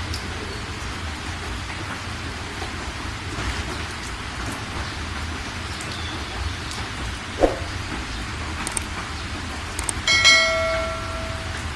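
Steady heavy rain. A single knock comes about seven seconds in, and near the end a sharp clink rings out for about a second.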